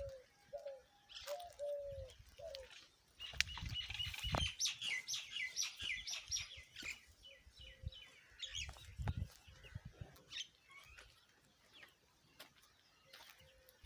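Small birds chirping: a fast run of short, quickly repeated chirps in the middle, with a few lower, curved call notes near the start and scattered chirps later. A couple of low thuds are heard around the middle.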